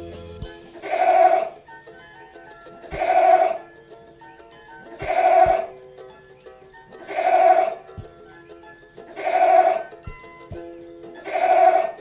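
Goat bleating: six similar bleats about two seconds apart, over background music.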